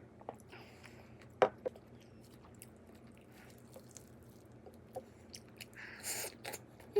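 A person chewing and biting food, with scattered sharp clicks and a brief rustle near the end.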